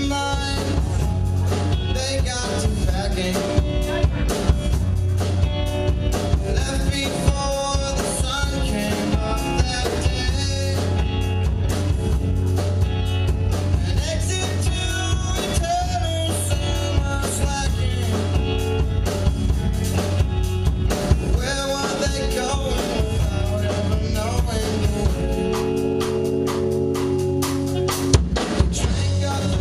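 Live rock band playing: electric guitar, bass and drum kit with frequent drum hits, easing into held chords near the end.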